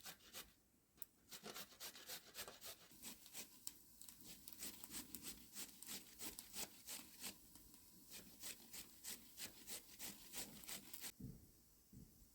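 Faint, rapid rubbing or scraping strokes, about three to four a second, that stop suddenly near the end, followed by a couple of soft low knocks.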